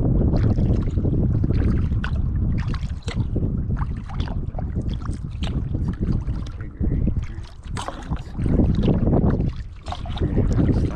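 Kayak paddle strokes, the blades splashing and dripping in the water, with wind rumbling on the microphone.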